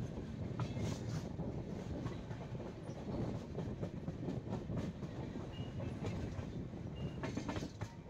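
Express passenger train running on the track, heard from on board: a steady wheel-and-rail rumble with scattered clicks as the wheels pass over rail joints.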